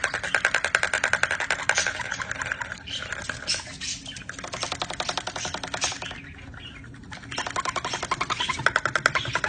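A pet bird giving a rapid, even stream of chattering pulses, about a dozen a second, which eases off twice before picking up again near the end.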